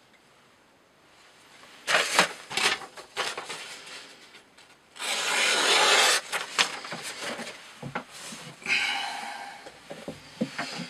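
Knife cutting through thick rope: a few short rasping strokes and knocks, then one longer slicing stroke about five seconds in.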